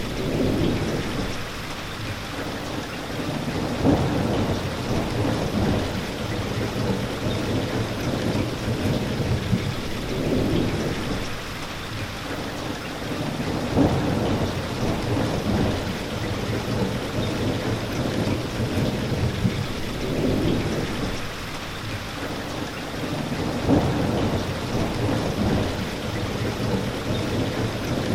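Steady heavy rain, with low rumbles swelling up every few seconds.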